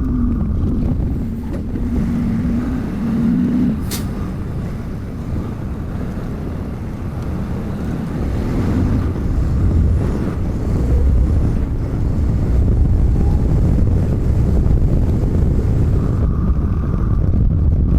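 Semi-truck engine and road noise heard inside the cab while driving: a steady low rumble, with a single sharp click about four seconds in.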